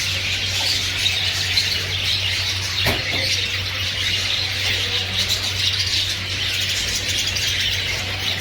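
Many caged small birds chirping and twittering together in a dense, continuous chorus, with a steady low hum underneath.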